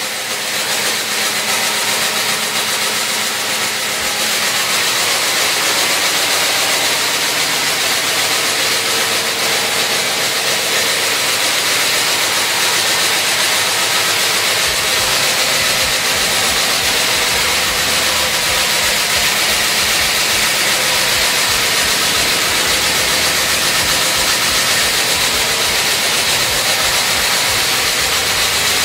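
Freshly rebuilt 383 Mopar big-block V8 idling steadily through 40-series Flowmaster mufflers. A deeper low rumble comes in about halfway through.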